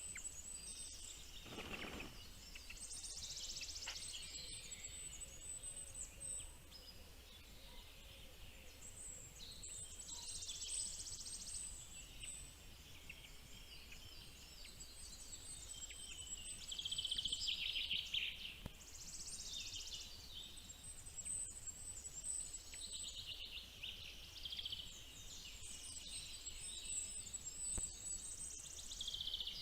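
Birds chirping: high-pitched, rapid trilling calls in bursts of a second or two, every few seconds, over a faint steady hiss.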